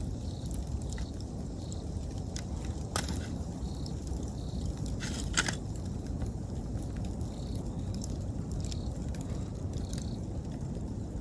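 Wood campfire crackling, with scattered sharp pops, the loudest about five seconds in, over a steady low rumble. Autumn insects chirp in short repeated calls throughout.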